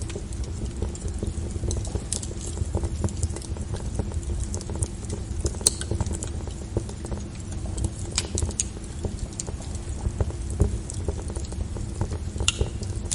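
Log fire burning, with a steady low rumble of the flames and frequent irregular crackles and pops from the burning wood, a sharper pop about six seconds in.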